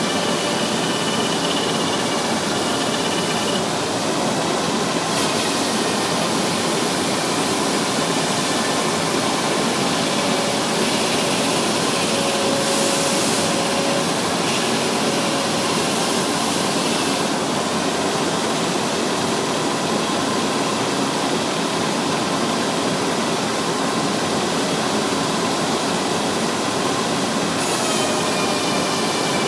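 Propeller sanding machine running, a steady abrasive noise with faint whining tones that shift in pitch now and then.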